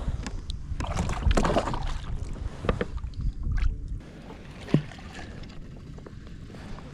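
Water splashing and sloshing around a kayak, with a few knocks on the hull and wind on the microphone.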